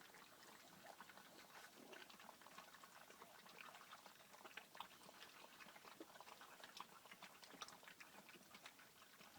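A litter of weaning puppies eating, faint irregular wet smacks and clicks of many small mouths at their food.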